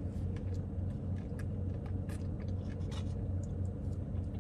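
Steady low hum of an idling car heard inside the cabin, with a few faint clicks and scrapes of a plastic spoon against a cup and teeth as ice cream is eaten.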